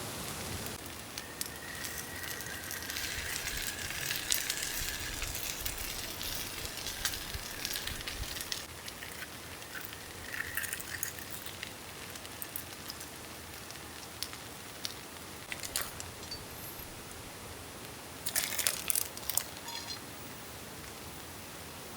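Steady hiss of rain with scattered small crackles and clicks, and a short cluster of rustling handling noise near the end.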